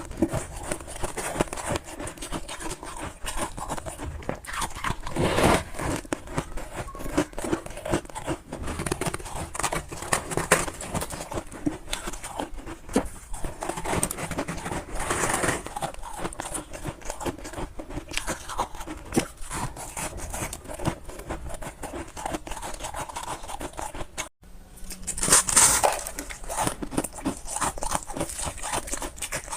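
Freezer frost being chewed, a continuous dense crackle of many small crunches. A short break about 24 seconds in is followed by a louder, crisper stretch of crunching.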